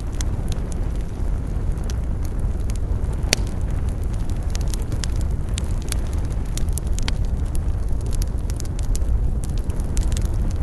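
Campfire burning: frequent irregular crackles and sharp pops from the burning wood over a steady low rumble, with one louder pop about a third of the way in.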